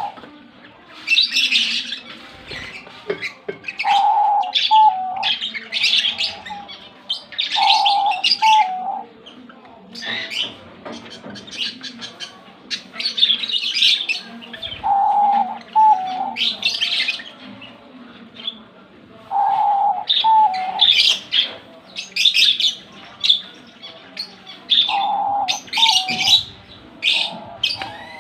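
Small cage birds chirping busily and often, with a dove cooing a short, low note roughly every five seconds.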